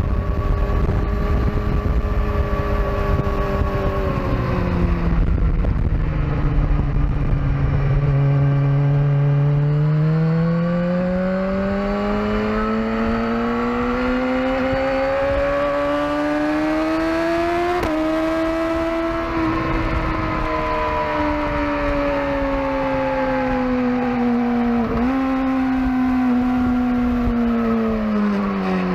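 Sport-bike engine running hard on a race track, its pitch climbing slowly for about ten seconds, then easing down, with brief jolts in pitch about two-thirds of the way through and near the end. Wind rushes on the microphone through the first several seconds.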